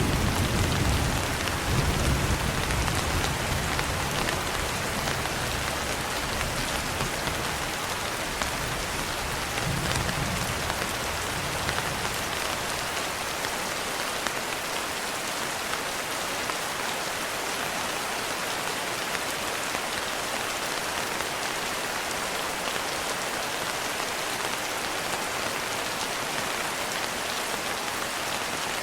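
Steady rain falling in an even hiss. A low thunder rumble rolls on under it, swells once more about ten seconds in, and dies away soon after.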